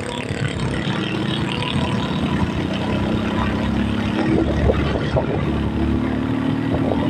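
A motor vehicle's engine running while on the move, with steady road and wind noise; its pitch rises a little from about halfway through.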